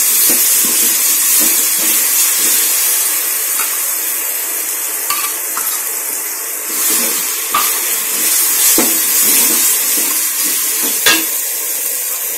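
Onions and ground spice paste sizzling steadily in hot oil in an aluminium pot, with a steel spoon stirring, scraping and knocking against the pot and cup a few times. The sharpest knock comes near the end.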